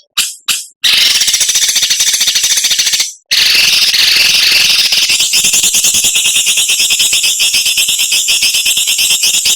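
A cage songbird's harsh, high-pitched rapid rattling call, the 'mbeset' (besetan) used to train other birds. Two short bursts open it, then a run of about two seconds and, after a brief break, a longer unbroken run.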